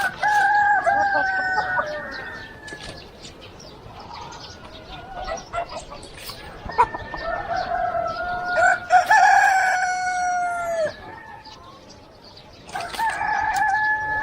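Roosters crowing, three crows in turn: one at the start, a long drawn-out crow in the middle, and another beginning near the end.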